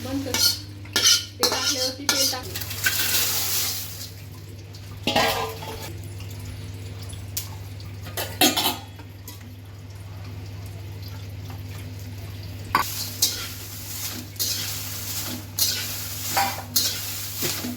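Metal utensil stirring and clinking against a cooking pan in irregular clatters, busiest in the first few seconds and again near the end, over a steady low hum.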